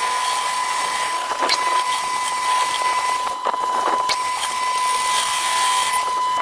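Metal lathe machining the repaired steel shaft: a steady whine over a high cutting hiss, with a few brief scraping streaks.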